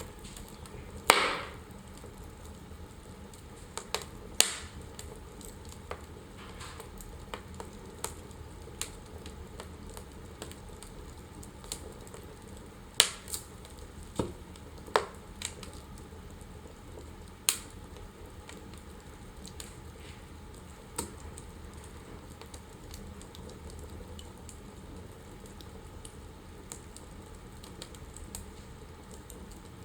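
Wood fire crackling in a fireplace: scattered sharp pops and snaps over a low steady hiss, the loudest pop about a second in, with a cluster of pops between about 13 and 18 seconds in.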